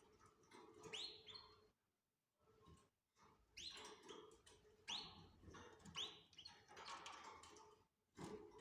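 Canary calls: about four quick rising chirps, each sweeping up and briefly holding a high note, faint, with soft rustling between them.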